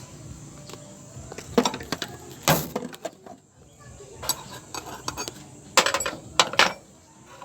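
Metal tools and engine parts clinking and knocking during engine disassembly: a handful of sharp metallic clinks, the loudest about two and a half seconds in and a quick cluster near the end.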